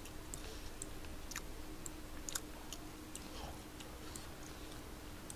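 Faint, irregular clicking of a computer mouse while screen captures are taken, over a steady low hum.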